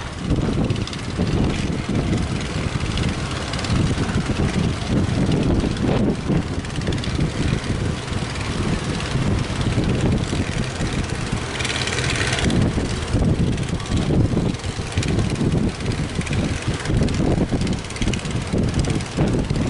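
Strong wind buffeting the microphone, a loud, uneven low rumble. A brief higher hiss comes about twelve seconds in.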